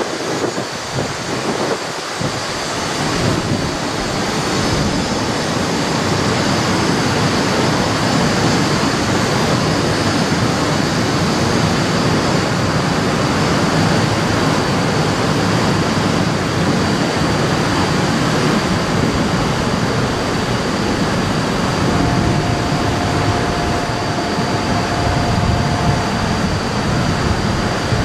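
Shinkansen bullet train running through the station: a steady, loud rushing noise that builds over the first few seconds, with a thin high whine throughout and a short steady tone about three-quarters of the way in.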